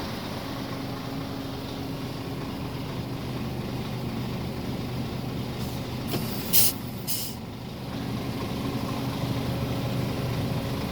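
Scania R450 tractor unit's 13-litre inline-six diesel idling steadily, with two short, sharp hisses of released air from the truck's air brake system about six and a half and seven seconds in.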